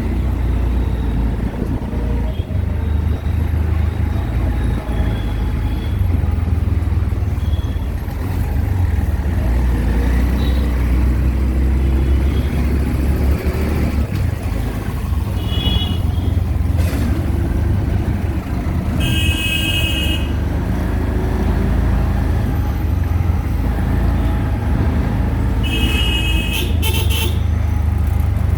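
Riding in an auto-rickshaw in traffic: a steady low rumble of engine and road noise, with vehicle horns honking three times in the second half, the middle blast the longest.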